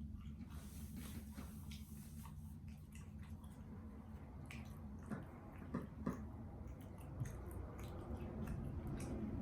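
A person chewing and biting food close to the microphone: wet, squishy mouth sounds with many small sharp clicks and smacks, a few louder ones around the middle, over a low steady hum.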